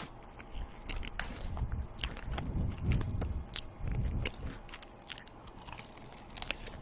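A person biting and chewing crunchy food close to the microphone: a series of crisp crunches with heavier chewing about two to four seconds in.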